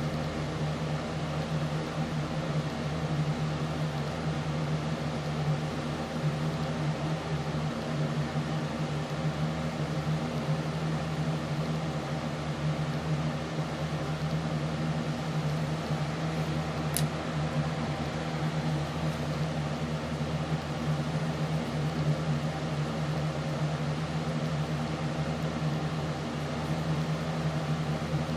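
A steady mechanical hum with a strong low drone and several fixed tones over it, unchanging throughout. One sharp click sounds a little past the middle.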